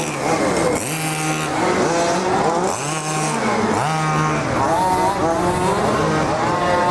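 Small two-stroke engines of 1:5-scale petrol RC cars revving up and down over and over as they are driven, more than one engine overlapping in the second half.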